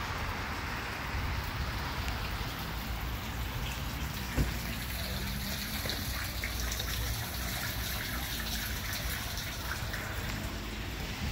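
Light rain falling, many small drop ticks over an even hiss, with wind noise rumbling low on the microphone. A single knock sounds about four and a half seconds in.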